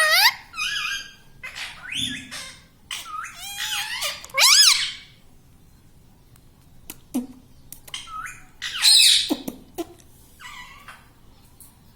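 Rose-ringed (Indian ring-necked) parakeet giving a string of shrill squawking calls with rising and falling pitch, then a pause, then another burst of calls near the end.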